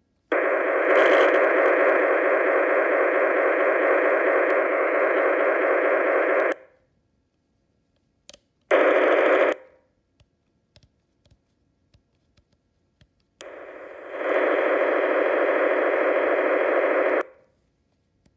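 Motorola MTS2000 handheld radio's speaker giving out loud static hiss in three stretches, about six seconds, then under a second, then about four seconds, each cutting off abruptly. Faint clicks fall in the quiet gaps between them.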